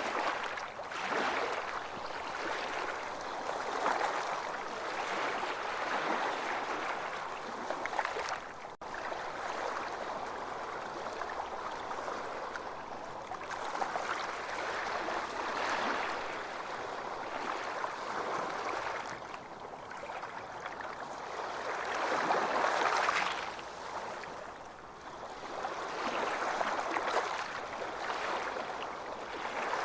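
Ocean surf washing onto a beach: a steady rush of water noise that swells and eases every few seconds, with a brief break in the sound about nine seconds in.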